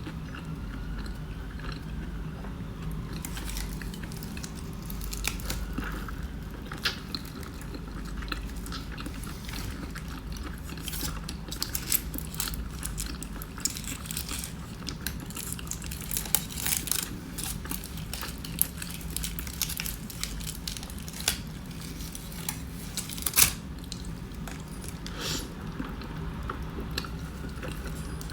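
A person chewing a breakfast burrito, with wet mouth clicks and smacks over a steady low hum, and one sharp louder click about three-quarters of the way through.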